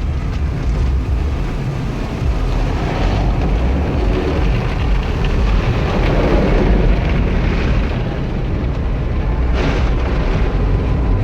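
Car wash running: a steady, loud rushing rumble, heaviest in the low end, with a brief swell of hiss about ten seconds in.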